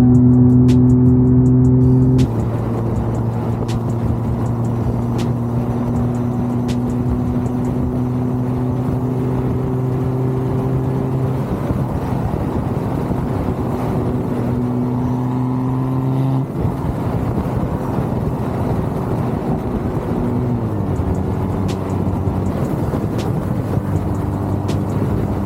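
Car engine and exhaust droning at a steady cruise, the pitch holding nearly level over road noise, then dropping a step about three-quarters of the way through.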